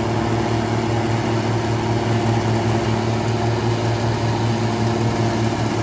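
Tractor engine running steadily under load, a constant low hum with no change in speed.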